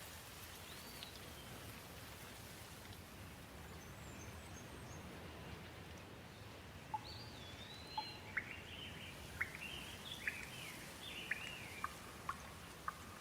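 Gentle, steady rain falling, with birds calling over it: a single chirp about a second in, then a run of quick sweeping chirps and short sharp calls through the second half.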